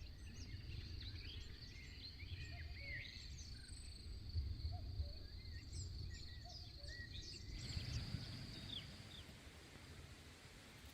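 Faint outdoor birdsong: many short, scattered chirps and whistles over a low rumble, with a steady thin high tone under the birds for most of the time. The background changes abruptly about two-thirds of the way through.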